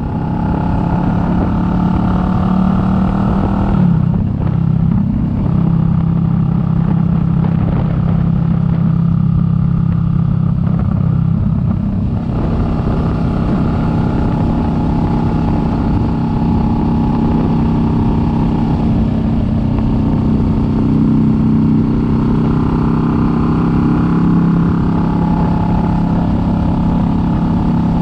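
Kawasaki Vulcan S 650's parallel-twin engine running at a steady road speed over a low rumble of wind. The engine pitch dips briefly and comes back about four seconds in.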